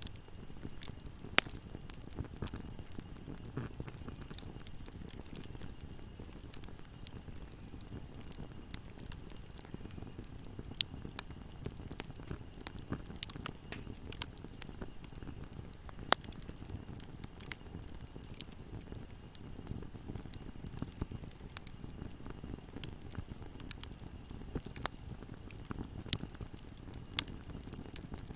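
Bonfire burning: a steady low rumble of flames with frequent sharp crackles and pops, and a few louder snaps scattered through.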